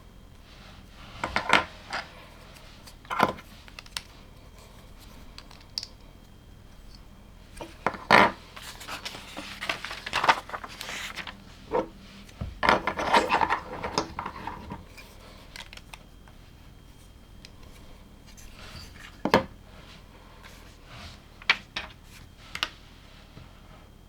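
Plastic LEGO bricks clicking and clattering as they are handled and pressed together. There are single sharp clicks at intervals and a longer rattle of loose pieces near the middle.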